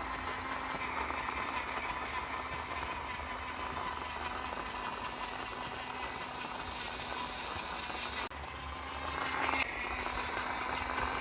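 Small DC electric motor of a homemade toy backhoe running steadily with a constant hum and a rattle. The sound briefly drops about eight seconds in, then picks up again.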